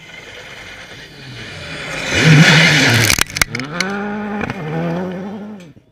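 Rally car approaching and passing at full throttle. The engine noise builds to its loudest about two seconds in, with a few sharp cracks, then revs up and down through quick gear changes before cutting off suddenly.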